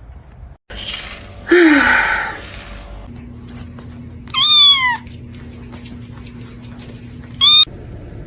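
A cat meowing: one long, loud meow about four and a half seconds in and a short one near the end. A loud, rough burst of noise comes before them, about a second and a half in.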